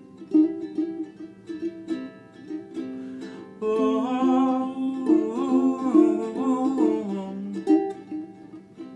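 Ukulele playing a blues tune, single notes and chords picked at a steady pace. From about four seconds in, a louder, held melody line bends up and down over the ukulele for about four seconds, then the plucked notes carry on alone.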